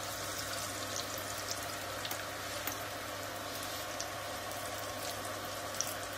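Chicken croquettes frying in hot oil in a frying pan: a steady sizzle with scattered small pops and crackles.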